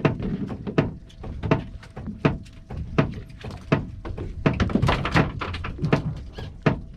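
Steady rhythmic thumping on a boat hull, a sharp knock roughly every three-quarters of a second, used to draw striped bass up under the boat.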